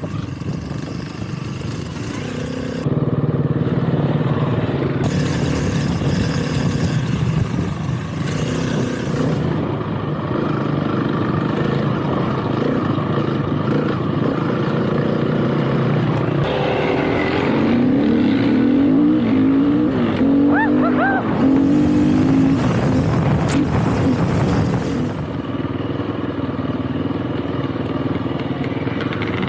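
Motorcycle engine running while riding, its pitch rising and falling with the throttle, strongest in the middle of the stretch, under a steady rush of noise.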